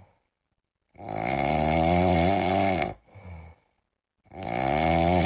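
Snoring: two long, wavering snores with a pause between them.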